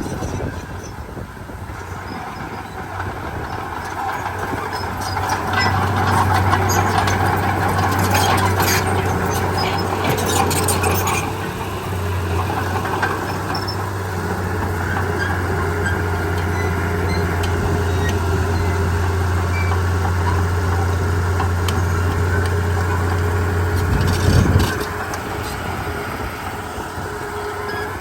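Heavy diesel earthmoving machinery running steadily under load, with a low engine drone and scattered clanks and scraping, and one loud knock near the end.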